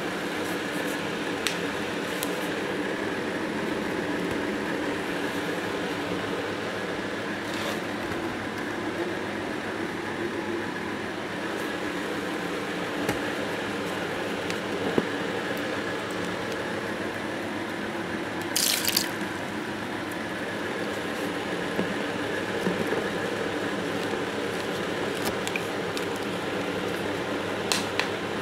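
Small electric fan motor of a homemade air cooler running with a steady hum, with a few scattered drips and clicks.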